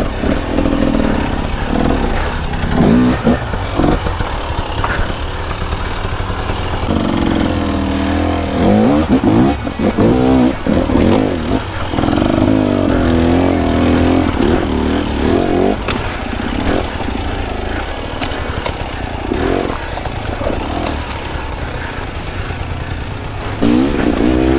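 Two-stroke dirt bike engine, a KTM 300 XC-W, revving up and dropping back in repeated throttle bursts on rough trail. There are longer pulls about 7 and 12 seconds in.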